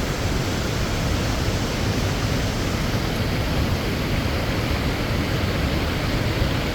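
Water from a natural spring flowing and splashing: a steady, dense rush.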